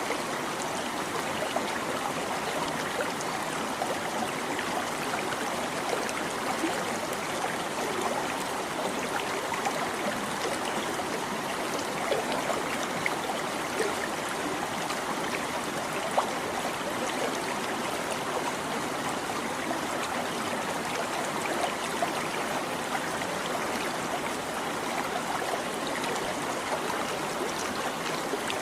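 A shallow stream babbling steadily over rocks, with small irregular splashes and gurgles.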